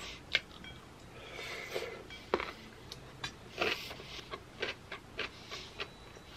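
Close-up eating sounds of someone chewing Chapagetti noodles and kimchi: irregular wet mouth clicks and smacks, a few of them sharper.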